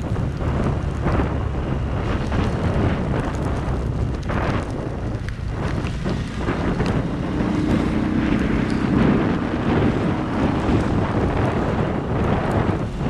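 Heavy rain pouring down, with wind noise on the microphone. A low steady hum comes up for a couple of seconds about eight seconds in.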